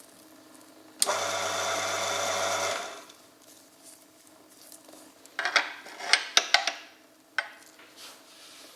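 Oil friction test machine's electric motor starting abruptly, running steadily for about two seconds and winding down, followed by a quick cluster of sharp metallic clicks and knocks and one more click a little later.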